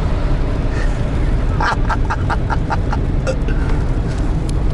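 Steady low rumble of engine and road noise inside the cab of a moving GAZelle Next van. About a third of the way in, a quick run of about six short chirps sounds over it.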